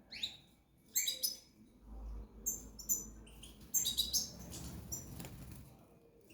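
Small cage birds chirping in short, high calls that come in quick clusters, with wings flapping and rustling in the cage.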